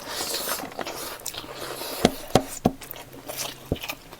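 Close-up mukbang eating sounds: chewing on pork leg and rice, with a few sharp clicks and smacks in the second half.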